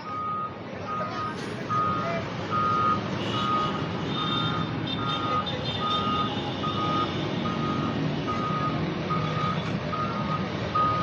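A vehicle's reversing alarm beeping steadily, a little more than one beep a second, over the low rumble of a running engine and traffic.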